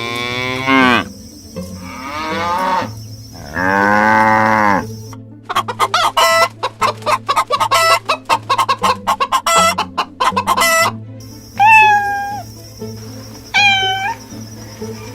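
Chickens clucking in a fast run of short clucks, after three long drawn-out calls from livestock. Two short calls that fall in pitch come near the end.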